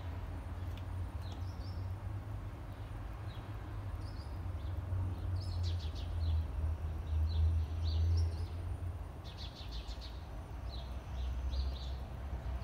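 Small birds chirping in short, high calls, with quick runs of chirps in the middle and again later, over a steady low outdoor rumble.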